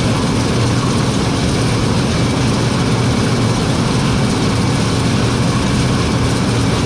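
Heavy farm machine's engine running steadily, with a dense mechanical hum and rush; it cuts off abruptly at the end.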